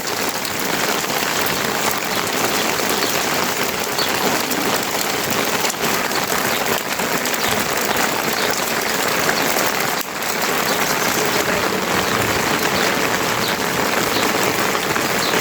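Steady heavy rain falling, an even hiss with scattered drop ticks, dipping briefly about ten seconds in.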